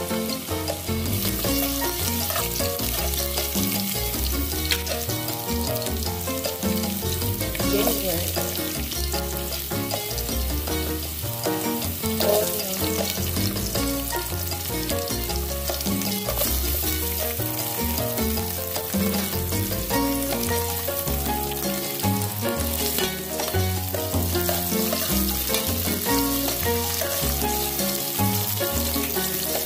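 Chopped garlic, ginger and onion sizzling as they sauté in a hot pot, a continuous frying hiss. Music plays underneath.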